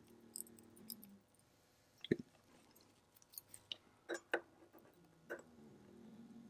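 Scattered light clicks and taps of small tools and parts being handled while the automatic winding components of a Seiko 6309 movement are refitted, with two close clicks a little past the middle.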